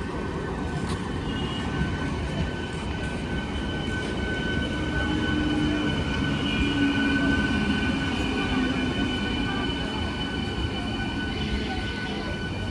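A train running past on the track: the rumble builds to a peak about halfway through and then eases off, with a steady high-pitched whine held over it.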